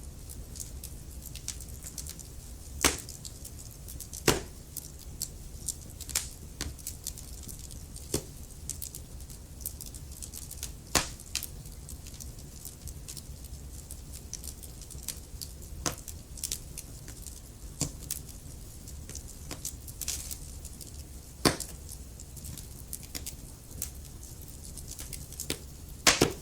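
Wood fire crackling in a fireplace: a steady low rumble of the flames under scattered sharp crackles, with a few louder pops every several seconds.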